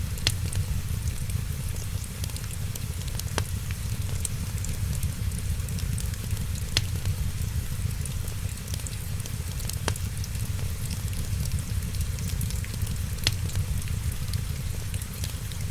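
Wood fire crackling over a steady low rumble, with many small ticks and five sharp pops spread about three seconds apart.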